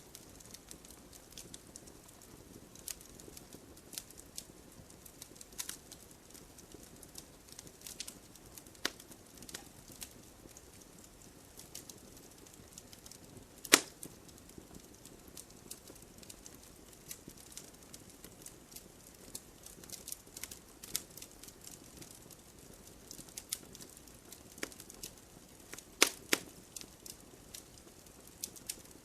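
Burning firewood crackling: irregular sharp snaps and pops over a soft low hiss, with one loud pop about halfway through and another pair near the end.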